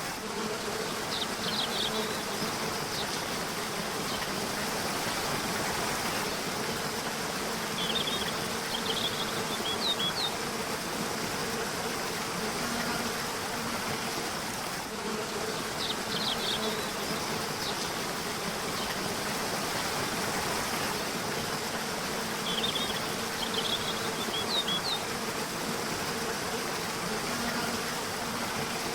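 River water rushing steadily, with small groups of short, high bird chirps and trills every six or seven seconds and a faint, steady low hum underneath.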